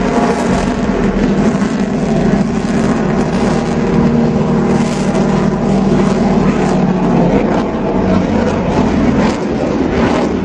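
Dassault Rafale fighter's twin jet engines, loud and continuous during a flying display, with a steady low hum under the jet noise.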